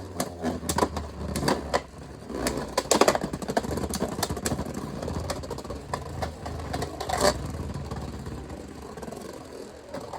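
Two Beyblade spinning tops battling in a plastic stadium, a 3D-printed Agèma Ares against a Beyblade X Wizard Arrow. A steady whir runs under repeated sharp clacks as the tops collide, and the clacks thin out and the sound quietens over the last few seconds.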